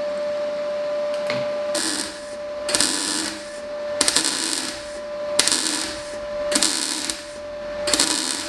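Welder laying a sill repair seam in short bursts, six crackling pulses about a second and a quarter apart starting about two seconds in, stitch-joining a tacked sheet-metal panel, over a steady faint hum.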